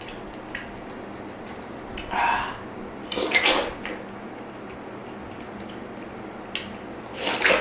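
Eating utensils clinking and scraping against a dish in a few short bursts, the busiest stretch about three seconds in and another near the end.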